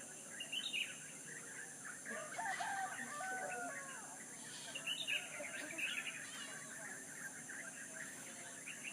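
A rooster crowing once, a drawn-out crow that starts about two seconds in, with small birds chirping around it and a steady high-pitched drone behind.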